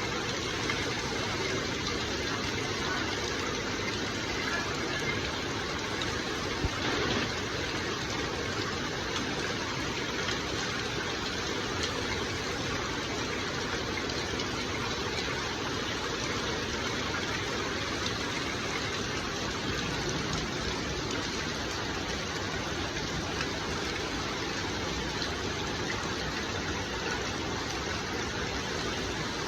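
Water spraying and falling steadily like rain, an even rushing hiss, with a faint knock about seven seconds in.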